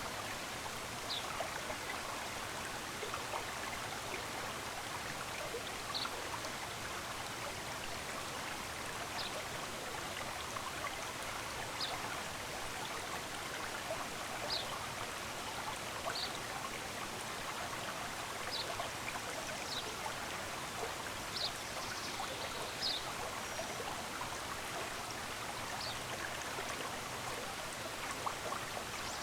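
Running water from a stream, a steady even rush, with short high bird chirps every second or few.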